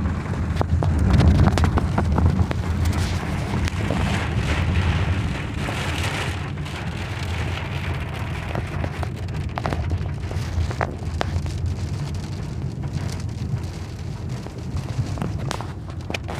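Heavy rain pattering on a moving car as sharp ticks over a noisy hiss, above the car's steady low rumble.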